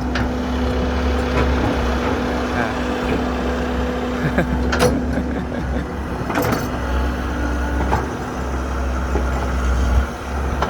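Heavy diesel engines of an excavator loading a dump truck, running steadily. A steady hum sits over the engine for about the first five seconds, and two sharp knocks come near the middle.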